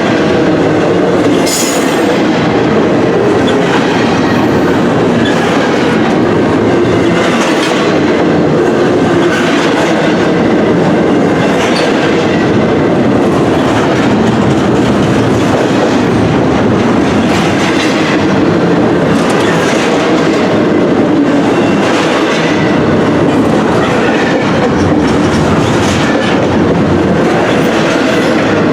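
Freight train cars rolling past close by: a loud steady rumble of steel wheels on rail, with a click-clack every couple of seconds as wheelsets cross rail joints and faint wheel squeal.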